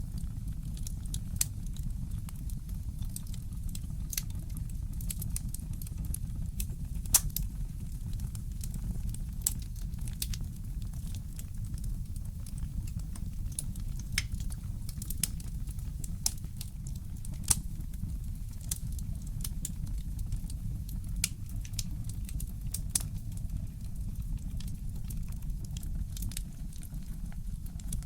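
Wood fire in a fireplace crackling, with irregular sharp pops and snaps over a steady low rumble. A few pops stand out louder, one about seven seconds in and another near the middle.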